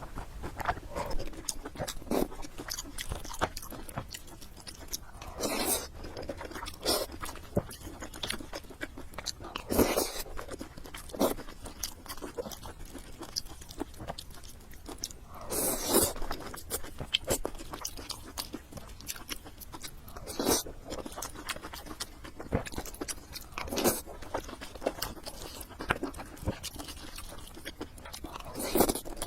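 Close-miked eating: a person chewing and biting food, with many small wet clicks and crunches and a louder, longer noisy sound about every four to six seconds.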